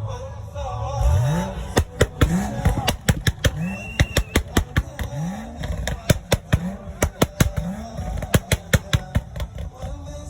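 Car engine revved in repeated quick blips, each rising sharply in pitch, with rapid exhaust pops and crackles between the revs.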